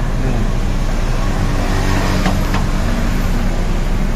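Steady motor-vehicle noise: a low engine hum under an even wash of noise, with two faint clicks about two seconds in.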